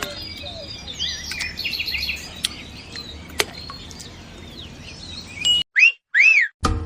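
Birds chirping and calling over a low background rumble, with a couple of sharp clicks. Near the end the background cuts out and two short whistled tones sound, each rising and then falling.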